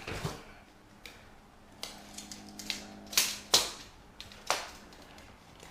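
Tape measure being handled against wood: a run of sharp clicks and knocks, with a brief whir and two loud snaps a little after three seconds in.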